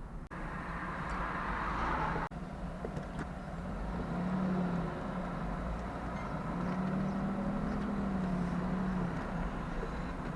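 Jaguar V12 engine running, its low note rising and falling gently about four seconds in and again from about seven to nine seconds in, as if lightly revved. The sound drops out for an instant twice in the first few seconds.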